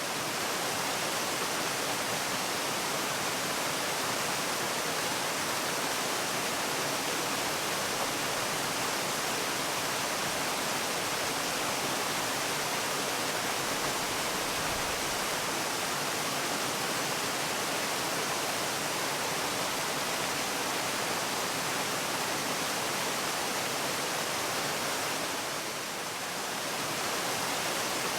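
Waterfall: a steady rush of falling water, with a brief dip in level near the end.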